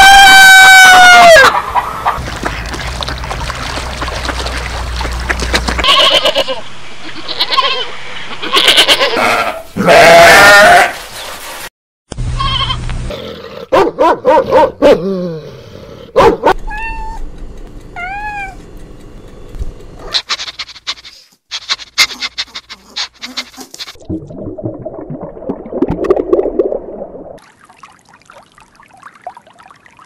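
A rooster crowing, its loud call falling off in pitch about a second and a half in, followed by a string of short, separate animal calls and noises from different animals, with abrupt cuts between them and quieter stretches near the end.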